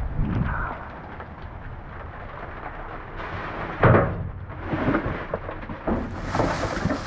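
Rummaging through dumpster contents: a loud thump about four seconds in, then scattered knocks and rustling, over a low rumble of wind or rain on the microphone.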